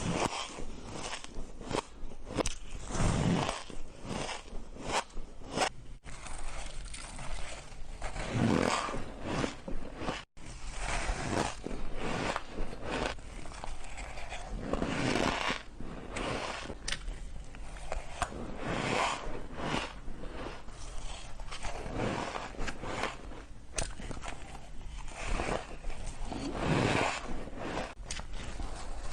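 Person biting and chewing frozen shaved ice bites close to the microphone: a steady run of crisp crunches and scrapes, with louder bites every few seconds.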